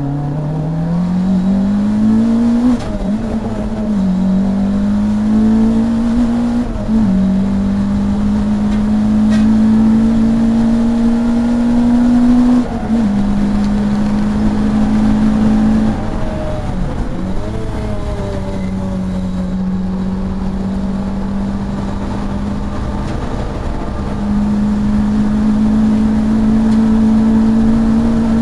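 Saloon race car engine heard from inside the car on track: it accelerates hard through the gears, the note stepping down at each change. Around the middle it briefly lifts and drops its revs, then holds steady and pulls to higher revs again near the end.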